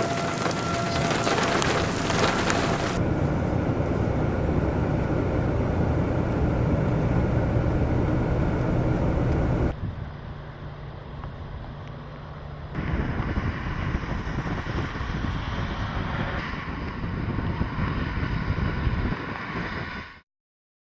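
Storm wind buffeting the microphone over a low steady rumble, with a heavy hiss of rain for the first few seconds. The sound changes abruptly several times and cuts off to silence about a second before the end.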